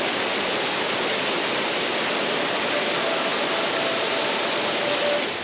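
Waterfall water pouring out of a rock face and splashing down close by, a steady dense rush that fades out at the very end.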